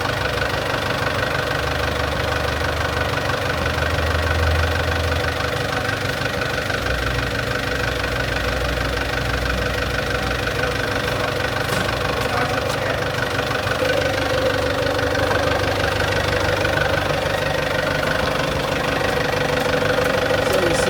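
Excavator's diesel engine running steadily, its low rumble swelling twice in the first half as it works under load.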